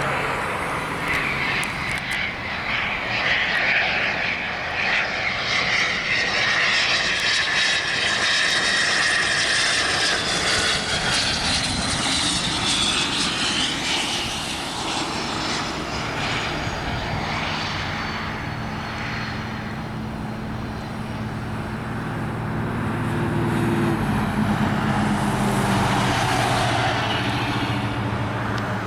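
A private business jet passes on its landing approach, its jet engines running with a broad rush. A high turbine whine falls in pitch as it goes by. Near the end a lower steady engine hum comes in.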